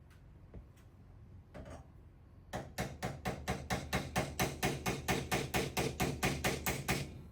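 Rapid, even knocking on a countertop, about five strikes a second for some four seconds, as a water line is worked onto a fitting.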